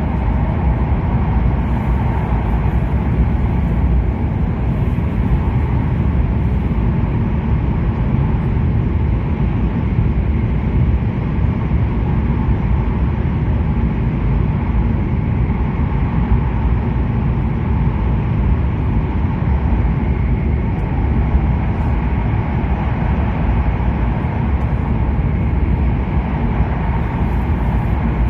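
Steady low rumble of an E7 series Shinkansen running, heard from inside the passenger cabin.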